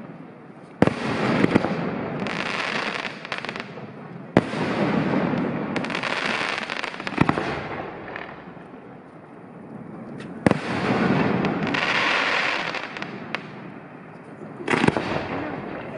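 Aerial firework shells bursting: about five sharp bangs a few seconds apart, each followed by a rush of noise lasting a few seconds as the burst spreads.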